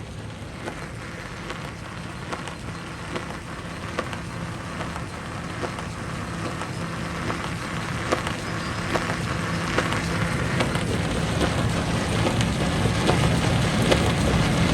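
Jaw rock crusher running with a steady low hum, over a crackle of scattered sharp cracks and rattles as rock breaks, slowly getting louder.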